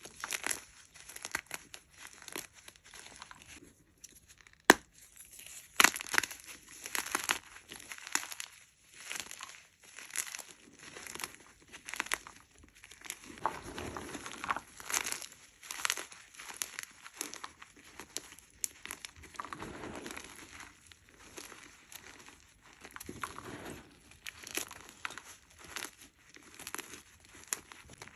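Hard blocks of gym chalk being crushed and crumbled close to the microphone: an irregular run of dry crunches and crackles. One sharp crack stands out about four and a half seconds in.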